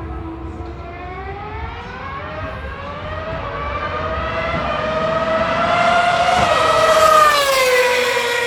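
Ferrari Formula 1 car's high-revving engine accelerating toward the listener, its pitch climbing as it grows louder, then dropping as it passes by about seven seconds in.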